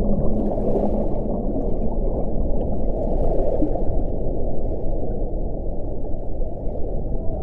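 Wind blowing with a steady low rush, swelling into brief hissing gusts about a second in and again around three seconds in. A low howling tone fades out just after the start.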